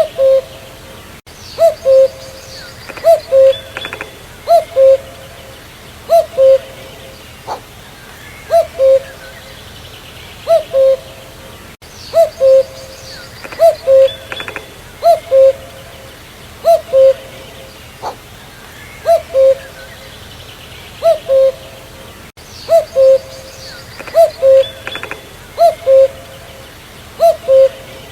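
Common cuckoo (Cuculus canorus) calling its two-note "cuck-oo", a higher note dropping to a lower one, repeated over and over about every second and a half. Fainter chirps of other birds sound in the background.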